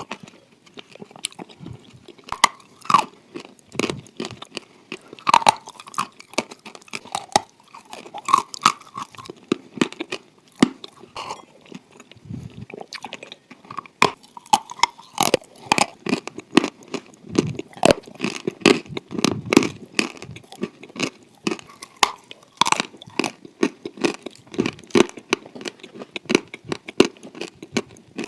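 A person biting and chewing pieces of dry clay: many sharp, irregular crunches with softer wet chewing sounds between them.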